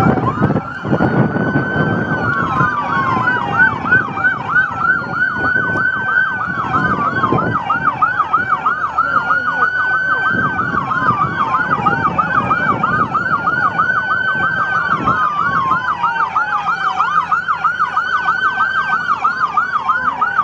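Police sirens sounding together: one in a fast yelp, about three to four sweeps a second, over another in a slow wail that rises and falls every couple of seconds, with a low engine and road rumble beneath.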